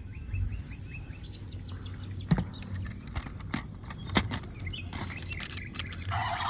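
Birds chirping in a quick series of short calls in the first second or so, then a few sharp clicks over a low steady hum.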